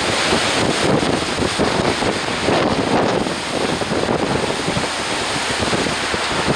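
Storm-force wind blowing hard over the microphone: a loud, steady rush of noise.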